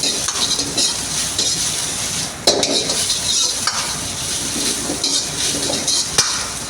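Food frying and sizzling in a hot pan while a metal utensil stirs and scrapes through it, with sharp clanks of metal on the pan about two and a half seconds in and again near the end.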